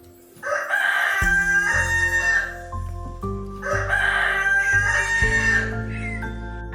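A rooster crowing twice, each cock-a-doodle-doo lasting about two seconds, over background music.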